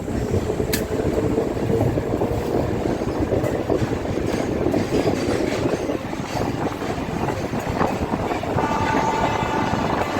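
Kolkata suburban local train running along the track, a steady rumble of wheels on rails. A steady higher tone joins in near the end.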